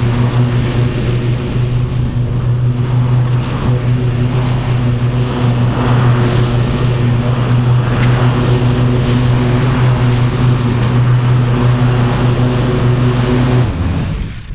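Kubota tractor's diesel engine running at a steady speed, then cutting off near the end.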